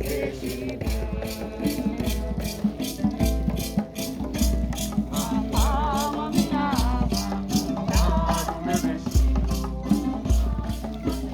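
Hymn music: maracas shaken in a fast, even beat under singing and low sustained bass notes.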